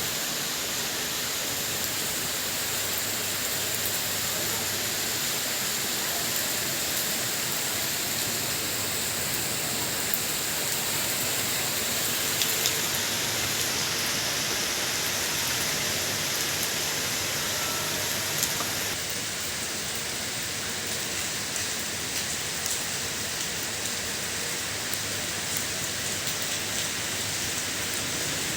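Steady rain falling, a continuous hiss with scattered drop ticks on surfaces. The texture shifts slightly about two-thirds of the way through.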